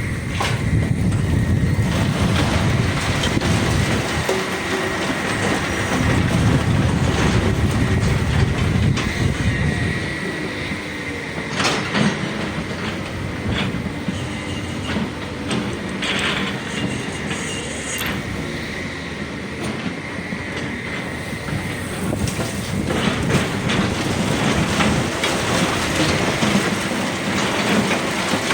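Hydraulic excavators working rock: diesel engines rise and fall under load, with a steady high whine throughout. Several sharp metallic knocks and clanks come in the middle.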